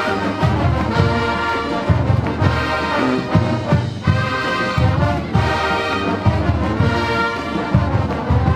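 Marching band playing: brass chords over a regular low drum and bass beat.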